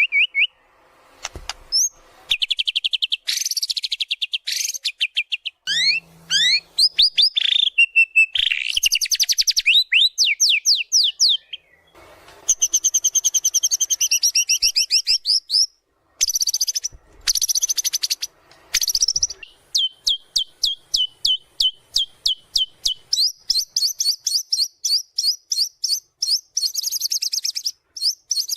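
White-rumped shama singing a loud, varied song of whistles and fast sweeping trills in short phrases with brief pauses. It ends in a long run of quick, evenly repeated notes.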